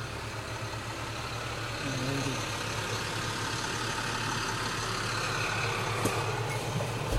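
Truck engine idling steadily with a low rumble, growing slightly louder.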